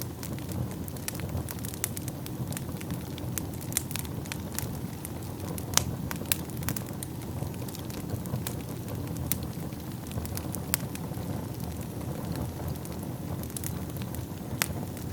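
Wood fire burning in a fireplace: a steady low rumble of flames with irregular sharp crackles and pops, a couple of louder pops about six and eleven seconds in.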